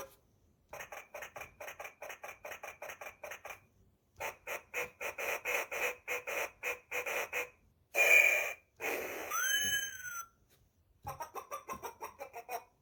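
A children's sound-button book's small speaker plays a series of short electronic sound effects. Two runs of quick, even pulses are followed by a loud short burst about eight seconds in. Next comes a tone that bends up and back down, then more quick pulses near the end.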